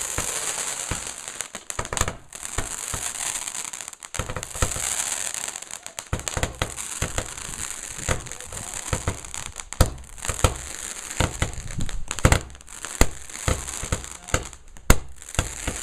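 Firework crackling and popping over a steady hiss, with fast irregular pops that grow sharper and more spaced out in the second half.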